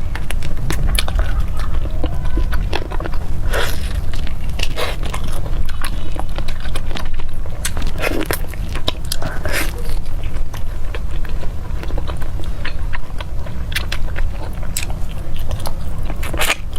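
A person chewing and biting into a grilled (not fried) chicken thigh burger close to the microphone: many small wet mouth clicks, with a few louder bites spread through.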